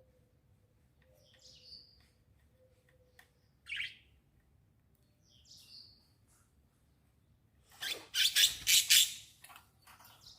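Small birds chirping in short, separate high calls a couple of seconds apart, then a louder cluster of rapid, sharp sounds about eight seconds in.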